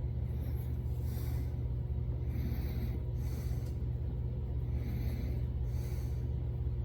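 Steady low hum, with a few faint soft rustling or breathing noises over it.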